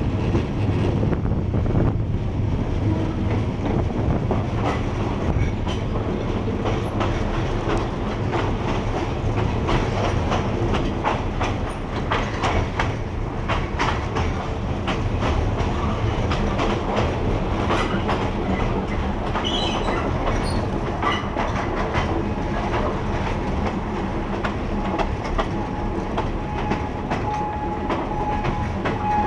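Train on the Ban Laem–Mae Klong railway running, heard from aboard: a steady rumble with irregular clacks and knocks of the wheels over old, poorly maintained track. A steady tone comes in near the end.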